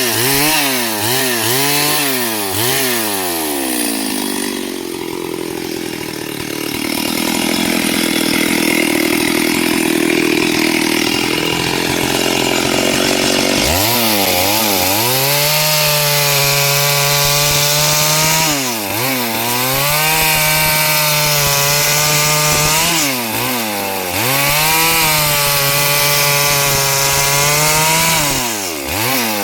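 STIHL 72cc two-stroke chainsaw revved in quick blips, then run at full throttle through wood, its steady high pitch dropping briefly every four or five seconds as the throttle is let off. In between, for about ten seconds, the engine's tone gives way to a rougher rushing noise.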